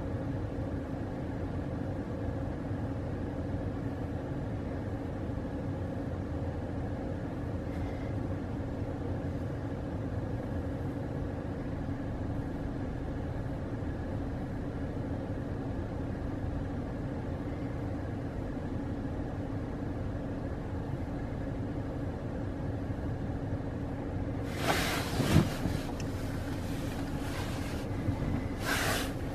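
A car idling with a steady low hum. Two brief rustling, knocking noises come near the end.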